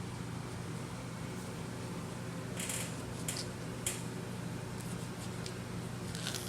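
A few short, crisp knife cuts through cherry tomatoes, a cluster about halfway through and another near the end, over a steady low room hum.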